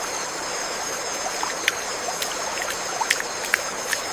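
Rainforest ambience: a steady even hiss with a steady high drone and scattered short, sharp chirps.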